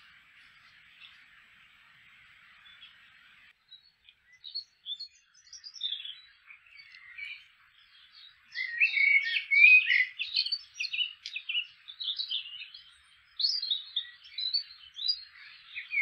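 A faint steady hiss gives way after about three seconds to small birds chirping and singing, several calls overlapping, the song growing louder and busier about halfway through.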